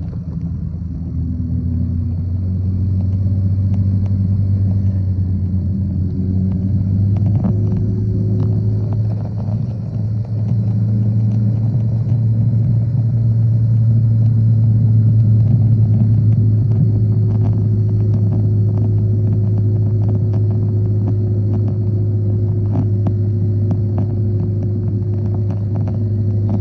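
Motorcycle engine running steadily while riding, a loud low rumble with a few faint ticks here and there.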